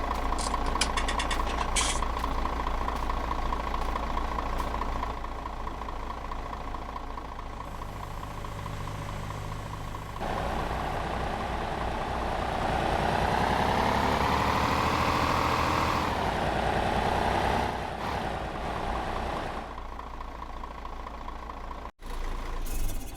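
Old tractor engine running after standing unused for 28 years. About ten seconds in the engine speed rises, holds for several seconds, then drops back to a steady run.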